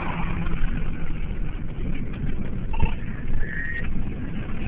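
Fire engine's engine running steadily, a low even hum, with a brief high tone about three and a half seconds in.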